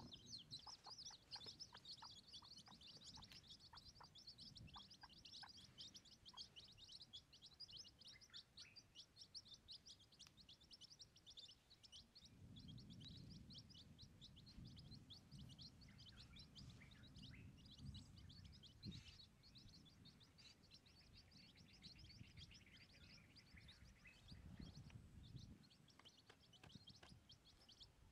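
Faint, continuous quick high-pitched chirping of small birds, with a low rumble of wind a couple of times.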